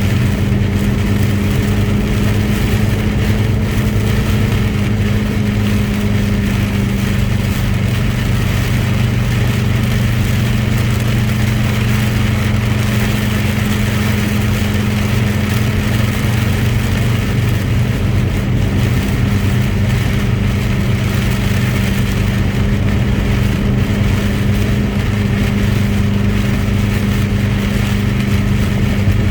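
Truck engine running steadily while driving, a constant low drone with road and tyre noise hissing over it.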